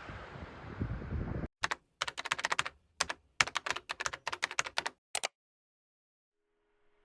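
Wind noise on the microphone for about a second and a half, cut off abruptly. Then a run of rapid computer-keyboard typing clicks in quick clusters, lasting about three and a half seconds and stopping into silence.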